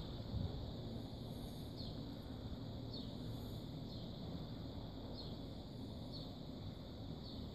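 A small bird repeating a short, high, falling chirp about once a second over a steady low outdoor rumble.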